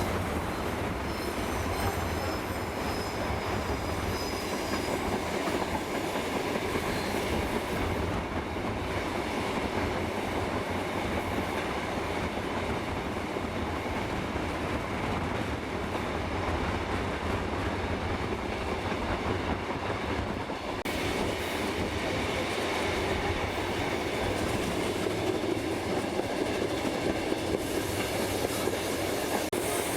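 Railway carriage rolling along the track at a steady pace, a continuous rumble and rattle of wheels on rails, with a thin high wheel squeal over the first few seconds.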